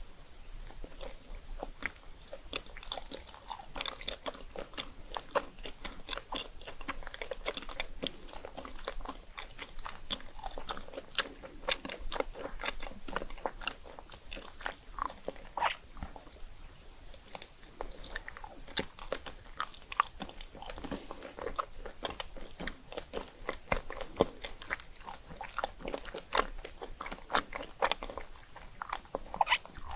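Someone biting and chewing crunchy puffed rice cakes topped with chocolate, Nutella and ice cream: a dense stream of crisp crackles and crunches.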